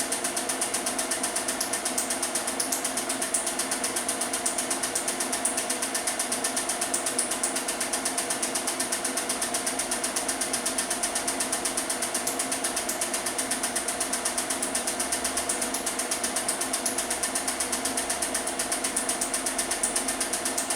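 Film projector running, a steady rapid mechanical clatter over a constant motor hum.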